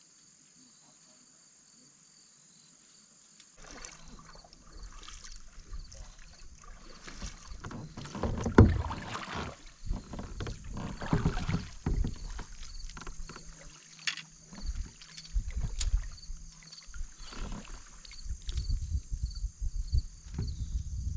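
Kayak on the water, with knocks, bumps and sloshing from paddling and moving about, coming in after a nearly silent first few seconds. The loudest knock falls near the middle. Insects chirr steadily in the background.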